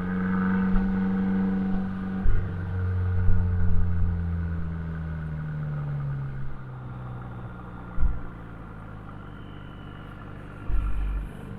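Abarth 595C's turbocharged four-cylinder through an Akrapovic exhaust, heard while driving: a steady engine note for about two seconds, a sudden break, then a pitch that falls slowly as the engine eases off. It then settles to a quieter drone, with a low thump about eight seconds in and another near the end.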